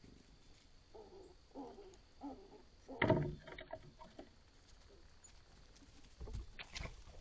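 A dove cooing, a short series of low coos about a second in. A sudden loud thump with a rustle follows about three seconds in, and two softer thumps come near the end.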